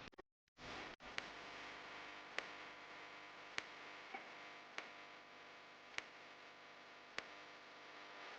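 Faint steady hiss with sharp ticks evenly spaced about every 1.2 seconds, after a brief dropout about half a second in.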